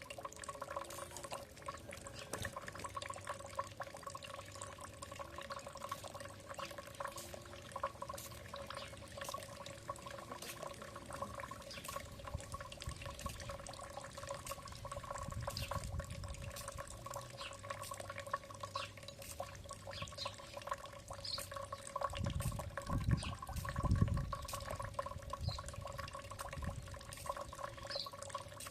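Small birds feeding, with many sharp little clicks and taps and a few short, high chirps. A steady hum runs underneath, and there is a brief low rumble about four-fifths of the way through.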